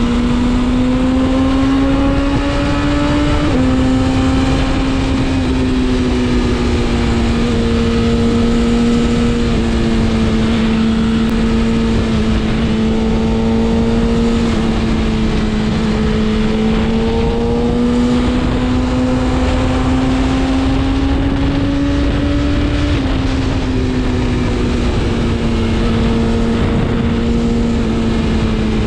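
BMW S1000RR inline-four sportbike engine running under steady throttle while riding. Its note climbs slowly, then drops sharply at an upshift, once about three seconds in and again near the end, over a constant rush of noise.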